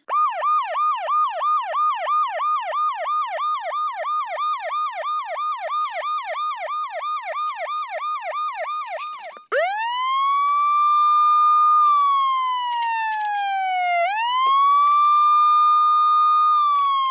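Electronic emergency-vehicle siren: a fast yelp, about three quick rising sweeps a second, for the first nine seconds or so, then switching to a slow wail that rises, holds and falls twice.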